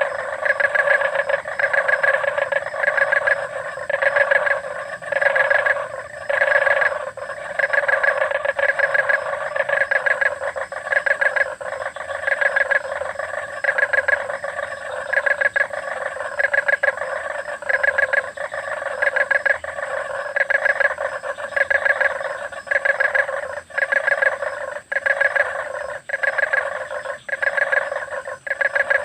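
A chorus of frogs calling: dense trains of rapid croaking pulses that swell and fall again about every second without a break. A faint steady high tone runs above them.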